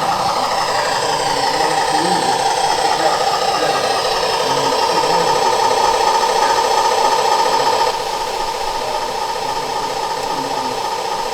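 Model train running on a layout: a steady mechanical hum with a high whine that slowly falls in pitch. It eases down a little about eight seconds in.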